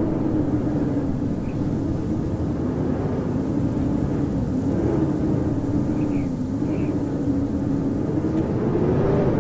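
Howling blizzard wind: a steady rush with a moaning pitch that slowly wavers up and down.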